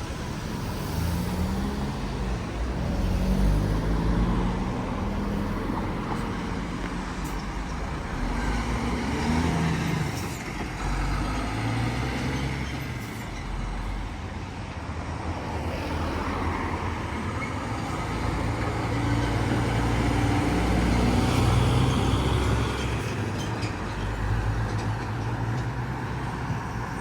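Diesel buses and other road traffic passing close by, their engines climbing and dropping in pitch as they accelerate and change gear, over a steady hiss of tyres and traffic.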